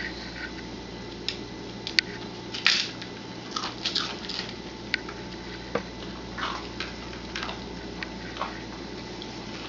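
Dry Cheerios being handled: scattered light clicks and short soft rustles, with a sharper click about two seconds in, over a steady low hum.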